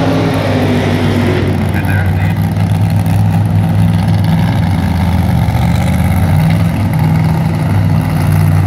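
Engine running steadily with a constant low hum, loud and unchanging, and a voice heard briefly at the start.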